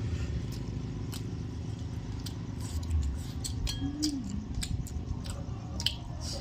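Eating at a meal: scattered small clicks and clinks of hands and food on plates, over a low steady hum.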